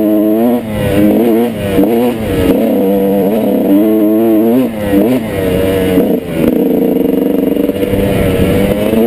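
Motorcycle engine running under way, its pitch rising and falling several times as the throttle is opened and closed, with brief dips where it drops off.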